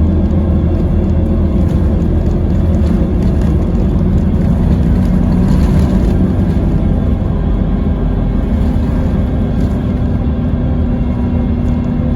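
Scania K320IB coach under way: steady engine drone with road noise, the engine note rising slightly about six seconds in.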